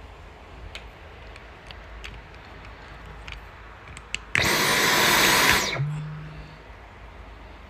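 Dyson V12 cordless stick vacuum switched on with a sudden loud rush of its motor, running for about a second and a half and then winding down, after a few faint clicks of handling.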